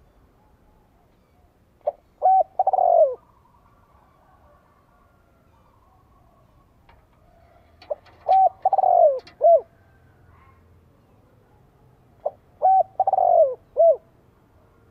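Spotted dove cooing: three phrases about five seconds apart, each a couple of short coos, a longer falling coo and a short closing note. This is a decoy male's call, played to lure wild doves.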